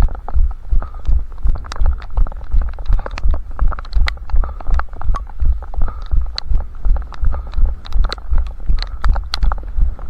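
A runner's footfalls in steady rhythm, about three low thuds a second, picked up through a head-strapped camera, with small sharp clicks and ticks among them.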